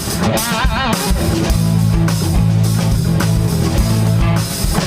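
Live rock band playing an instrumental bar between sung lines: electric guitars over bass and drums, with a wavering guitar note about half a second in.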